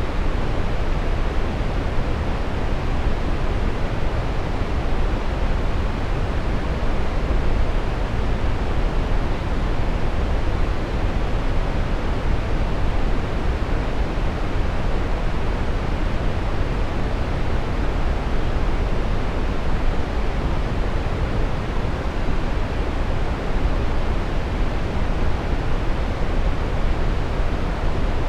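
Steady brown noise: an even, deep rushing hiss, strongest in the bass and dull at the top, with no changes.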